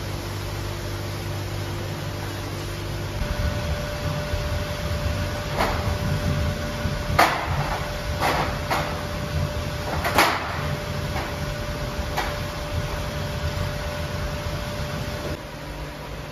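A steady machine hum, joined about three seconds in by a second steady tone, with about six sharp knocks between roughly five and twelve seconds in. The hum drops in level near the end.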